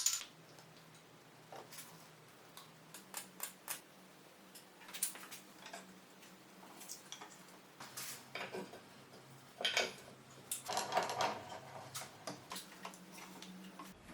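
Scattered light clicks and knocks of hard objects being handled, bunching into short clatters several times, over a faint steady hum.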